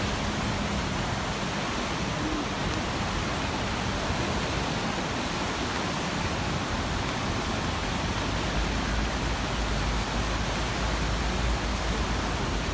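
A river swollen after heavy rain, its high water rushing in a steady, even roar. A deeper low rumble joins in about eight and a half seconds in.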